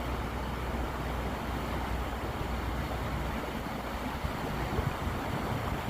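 Steady outdoor rushing noise with a low rumble underneath.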